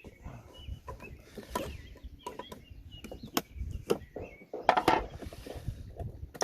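Irregular knocks, clicks and rustles of fishing gear being handled, with a few short high chirps from a bird, typical of chickens clucking in the background.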